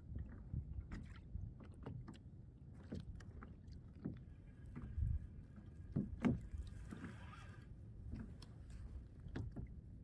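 Water lapping against a fishing kayak's hull, with irregular soft knocks and a brief hiss about seven seconds in.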